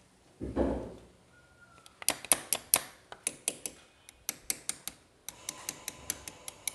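A quick, irregular run of light metallic taps, about three or four a second, as a new clutch oil seal is tapped into place in a motorcycle engine cover. There is a duller thump about half a second in.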